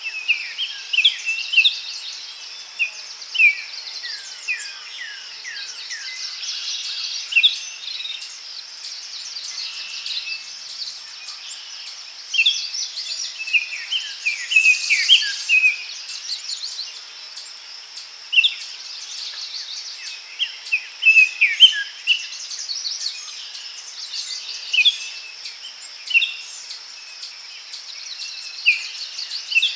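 Daytime forest ambience: many birds chirping and calling in short, falling notes over a steady high-pitched insect drone.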